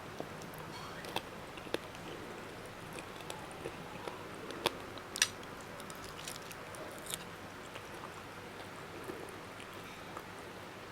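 A person chewing food close to the microphone, with scattered sharp mouth clicks and crunches; the loudest two come about halfway through.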